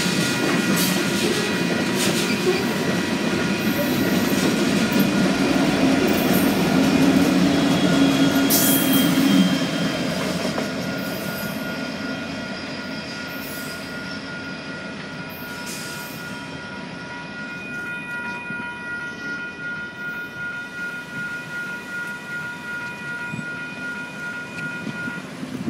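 Union Pacific freight train of covered hopper cars rolling past a grade crossing, its wheels rumbling on the rails, while the crossing bells ring steadily. The train noise fades after about ten seconds as the rear locomotives go by. The bells cut off near the end as the gates go up.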